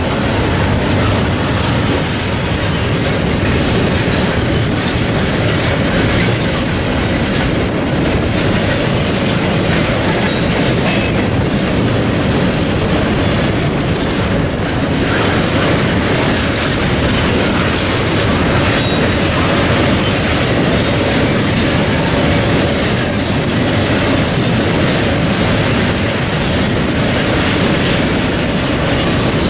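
Freight train cars rolling past at close range, wheels clattering steadily and loudly on the rails.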